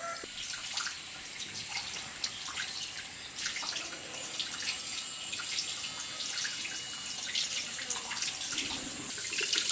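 Water trickling and splashing, with many small irregular drips and ticks, over a steady high hiss.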